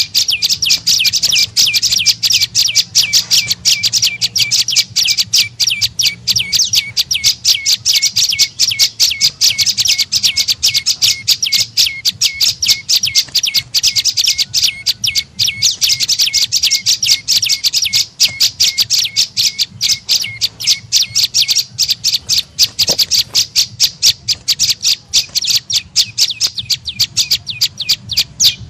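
Prenjak lumut bird calling: a fast, unbroken run of short, sharp, high chirps, several a second, used as a lure call.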